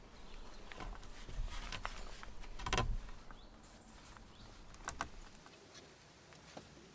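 Rustling and handling noise with scattered small clicks, and one louder knock with a dull thud about three seconds in.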